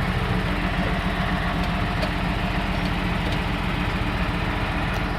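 Engine of a vehicle towing a mired small jet, running steadily with a fast, even low pulse.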